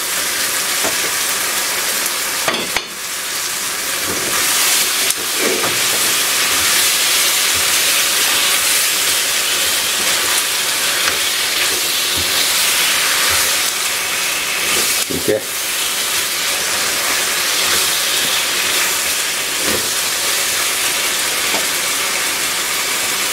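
Chicken, peppers and tomato sauce sizzling steadily in a non-stick frying pan while being stirred with a spatula. A few brief scrapes or knocks of the spatula against the pan stand out now and then.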